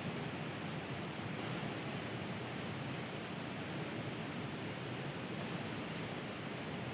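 Steady, even outdoor hiss with no distinct events, the kind made by rain, running water or wind.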